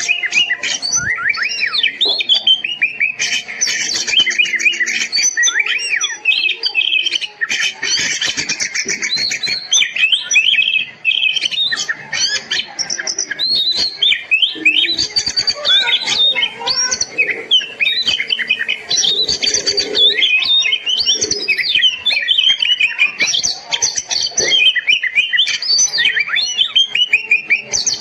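Oriental magpie-robin (kacer) in full, continuous song: a rapid, varied stream of whistled notes that glide up and down, broken about 3 s in and again about 8 s in by harsh buzzy rattling phrases.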